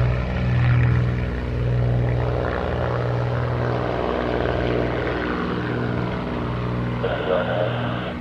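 Propeller aircraft engine running with a steady drone that pulses regularly in strength.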